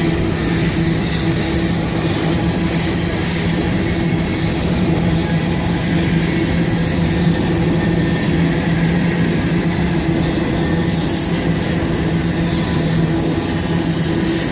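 Freight train boxcars rolling past: a steady, unbroken rumble of wheels on rail with a constant low hum.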